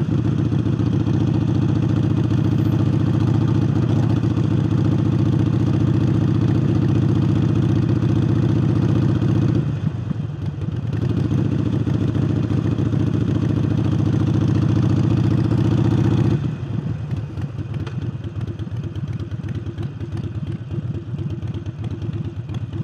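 Harley-Davidson Sportster Forty-Eight's 1200 cc V-twin running steadily under way, fitted with a new air intake. The note dips briefly about ten seconds in, then falls to a quieter level about sixteen seconds in.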